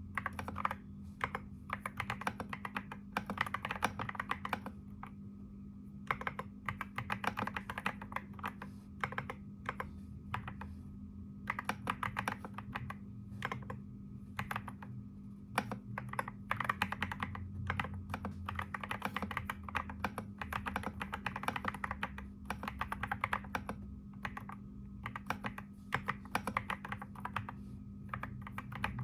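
Computer keyboard typing in quick runs of keystrokes, broken by short pauses every few seconds, over a steady low hum.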